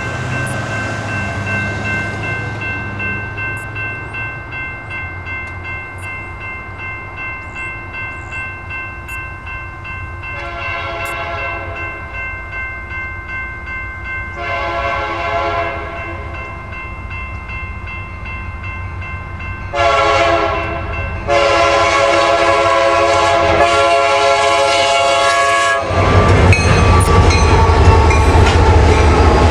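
Locomotive horn of an approaching Union Pacific SD70M sounding the grade-crossing pattern: two long blasts, a short one, and a final long one. About four seconds before the end, the locomotive's engine and the wheels on the rails arrive in a loud, low rumble as it passes close by.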